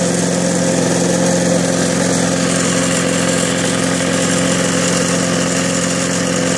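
Briggs & Stratton 3.0 hp single-cylinder four-stroke lawnmower engine running steadily at an even speed. It starts and runs after fresh oil and a new spark plug.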